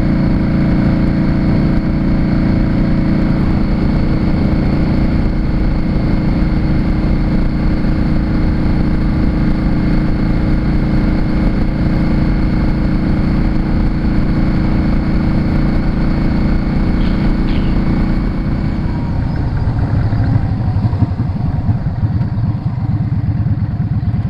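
Yamaha Drag Star 650's air-cooled V-twin engine running steadily as the motorcycle is ridden along the road. Its note drops lower about three-quarters of the way through as it slows.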